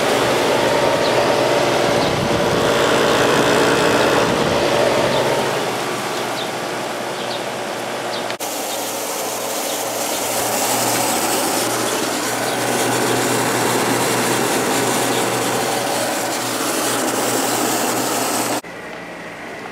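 Vintage room air conditioners running: the fan blowing a steady rush of air over a low, even compressor hum. The sound changes suddenly about eight seconds in, and drops again near the end, as one running unit gives way to another.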